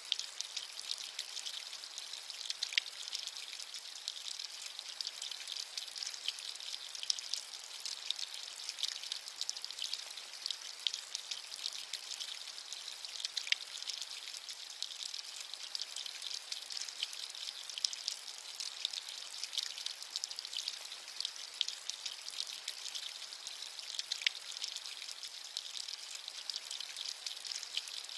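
Rain falling steadily: an even, high hiss of rain with many small drop patters scattered through it, and no low rumble or thunder.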